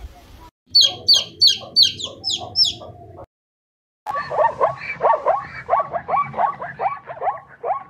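Animal calls in two parts: first a run of about six high-pitched yips, about two to three a second, then after a brief silence a faster run of lower, falling calls repeated over and over.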